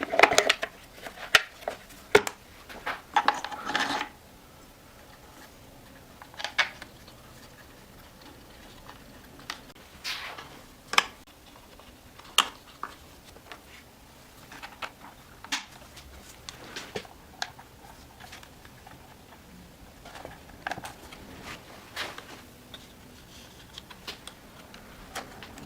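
Scattered sharp clicks and light knocks of small hard parts being handled, with a busier flurry of rattling and clattering in the first four seconds, then single taps every second or two.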